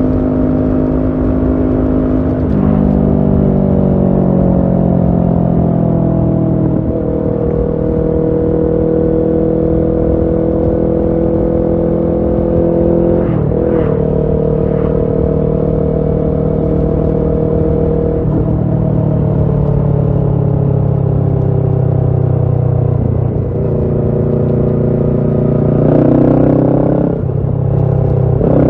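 Kawasaki Ninja 650 parallel-twin engine running through a Shark SRC-4 full exhaust system, heard from the rider's position while riding. The steady engine note changes pitch at several brief breaks and rises sharply near the end as the engine revs up.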